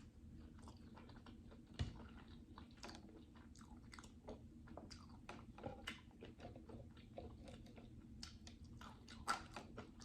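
Faint, close-miked chewing: a person eating, with soft, irregular wet clicks and smacks of the mouth over a faint steady hum. There is a louder knock about two seconds in and a few sharper clicks near the end.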